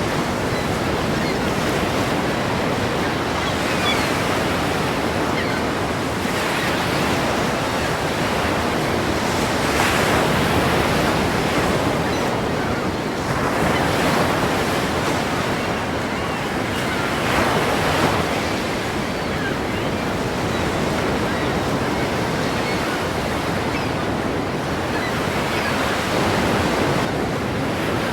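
Ocean waves breaking and washing in, a steady rushing surf that swells every few seconds as each wave crashes, with some wind.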